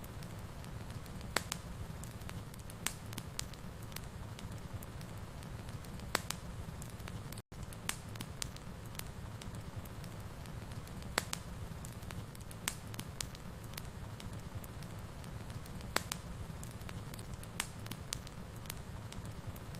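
Wood fire burning in a fireplace: a steady low rumble with irregular sharp crackles and pops, about one a second. The sound cuts out for an instant about seven and a half seconds in.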